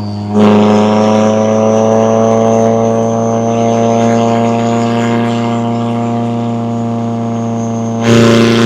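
McLaren 570S twin-turbo V8 running at steady revs with a droning exhaust note that eases slowly lower, and a thin high whine over it. Near the end the exhaust surges louder for about a second.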